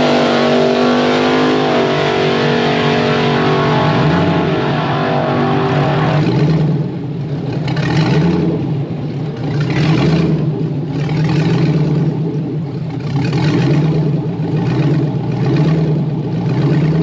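LS V8 of a drag altered running hard at high revs, its pitch rising and then held before it eases off about two seconds in. From about six seconds in it settles into a lower, rougher run that swells and falls every second or two.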